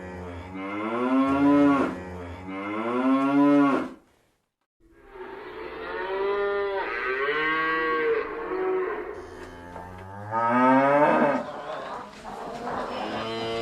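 Cattle mooing: a series of moos, some short and some long and drawn out, broken by a brief silent gap about four seconds in.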